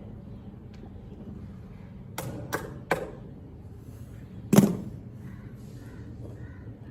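Four sharp knocks, three in quick succession and then a louder one about a second and a half later, over a steady low background noise.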